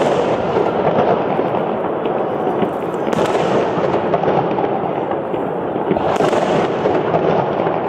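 Fireworks salute bursting overhead: a dense, continuous crackle with sharper bangs near the start, about three seconds in and about six seconds in.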